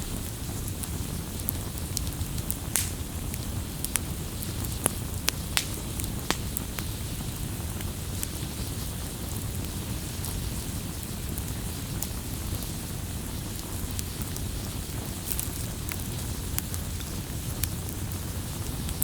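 Wood campfire crackling, with sharp pops that come thickest in the first several seconds and again a little past the middle, over a steady low rush.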